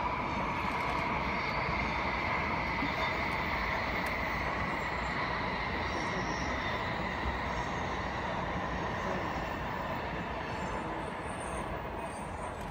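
N700-series Shinkansen train running past at speed: a steady rushing rumble with a faint whine that slowly falls in pitch, easing off slightly near the end.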